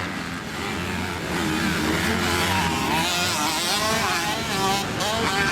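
Several 250cc motocross bikes racing, their engines revving up and down as the riders work the throttles around the track.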